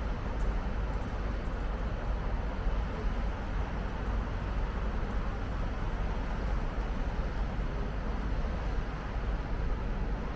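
Steady city traffic noise: an even rumble of passing vehicles with no distinct events.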